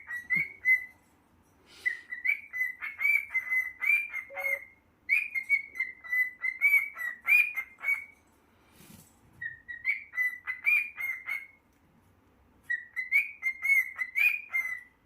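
Cockatiel whistling a warbling song in four or five phrases of quick, chirpy notes, with short pauses between them.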